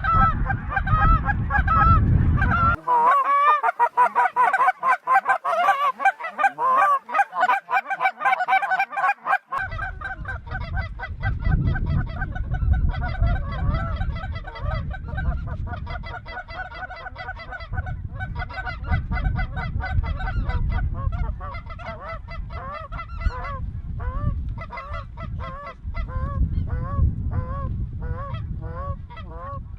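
A flock of geese calling overhead: many overlapping, rapidly repeated honks and yelps that go on without a break.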